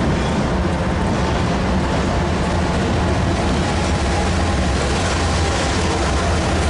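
Lead diesel locomotives of a BNSF freight train running past at close range: a loud, steady engine drone with dense noise of the moving train, no horn.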